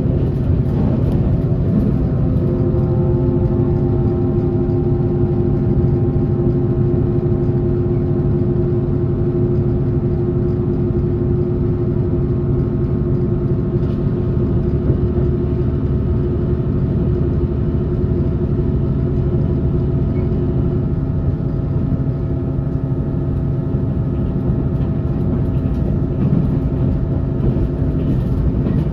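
Onboard running sound of a passenger train at a steady speed: the wheels rumble on the track under a steady hum of several pitched tones from the train's drive. Some of the higher tones fade out about two-thirds of the way through.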